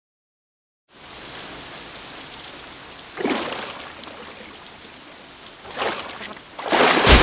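Steady rain falling, starting about a second in, with louder surges a little after three seconds and again near the end, the last one the loudest.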